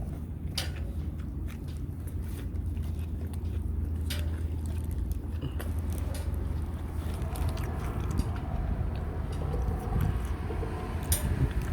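Biting into and chewing a McDonald's ranch snack wrap, with scattered sharp crunchy clicks close to the microphone, over a steady low rumble.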